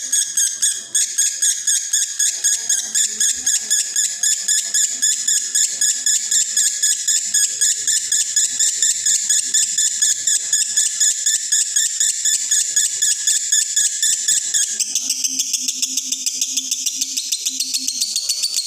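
Male lovebird in breeding condition singing the long, unbroken 'konslet' song: a rapid high-pitched chirping trill, several chirps a second without a pause. About 15 seconds in, its lowest notes drop out and the song carries on higher.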